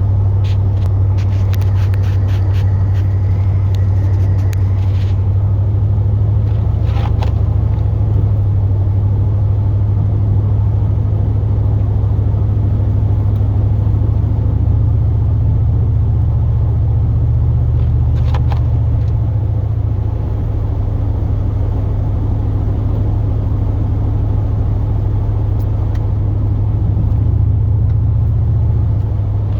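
Chevrolet Silverado plow truck driving, heard inside the cab: a steady low drone of engine and road noise. A few light clicks come in the first few seconds.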